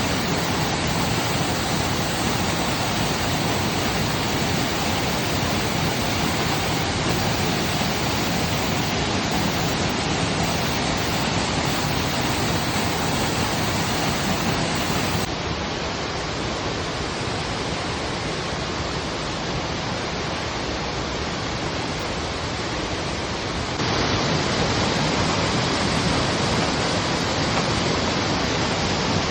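Waterfall pouring: a steady, full rush of falling water. It gets a little quieter about halfway through and comes back up several seconds later.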